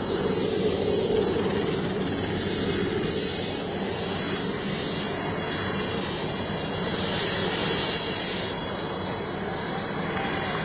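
Army helicopter's turbine engine running, a steady high-pitched whine over a broad rushing noise.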